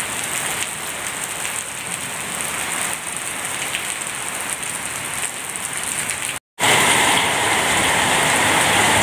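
Heavy rain falling steadily, an even hiss. About six and a half seconds in, it cuts out for a moment and returns louder.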